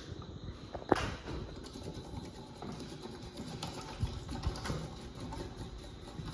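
Late-1990s hugger ceiling fan with a lighted housing coasting down after being switched off, its motor and blades giving a low rumble. There is a sharp click about a second in and a few softer knocks later on.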